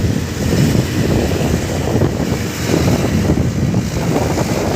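Heavy truck's diesel engine running with a steady low rumble, with wind buffeting the microphone.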